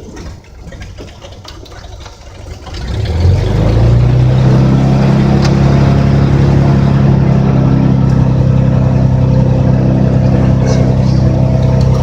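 Cessna 206's six-cylinder piston engine and propeller running low at first, then throttled up about three seconds in to a loud, steady full-power note for the takeoff roll of a stop-and-go.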